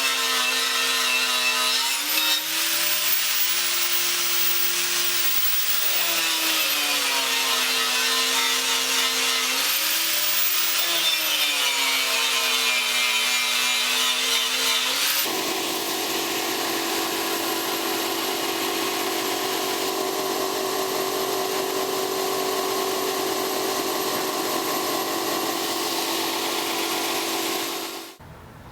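Electric power tool's motor running with a rasping hiss from the work. Its pitch sags and recovers about every four seconds as the tool is loaded and eased off. About halfway through it changes to a steady, unvarying whine, which stops abruptly near the end.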